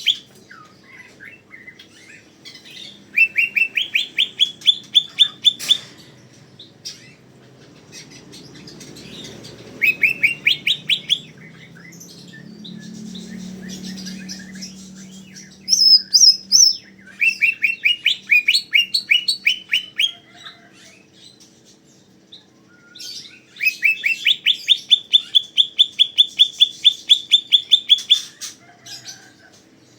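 Cucak ijo, a green leafbird, in full song: trains of quick repeated rising notes come in four bursts, the longest near the end, with a short higher phrase about halfway through.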